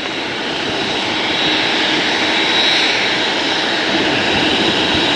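Jet airliner engines running, a steady loud rushing noise with a thin high whine, growing a little louder over the first couple of seconds.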